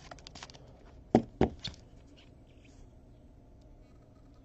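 Light clicks, then two solid knocks about a third of a second apart, just over a second in: cards and boxes being handled and set down on a tabletop.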